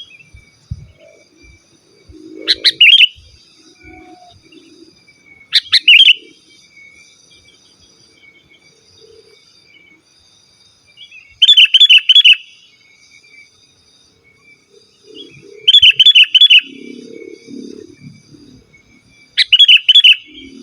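Sooty-headed bulbul (kutilang) singing: five loud, short phrases of quick notes, each about half a second to a second long and spaced a few seconds apart. Faint steady insect chirring runs underneath.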